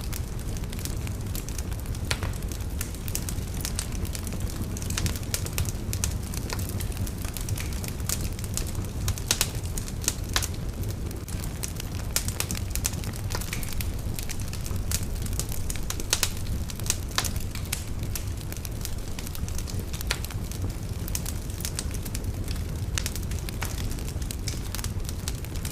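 Wood fire burning in a fireplace: steady low rumble of the flames with irregular sharp crackles and pops throughout.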